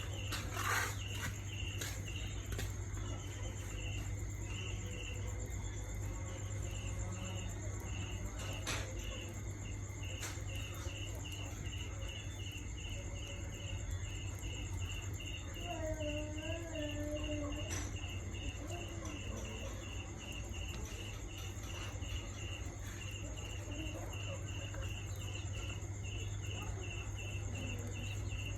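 Insect chirping steadily in an even rhythm, about three chirps a second, over a constant high buzz. A short wavering call comes in about halfway through.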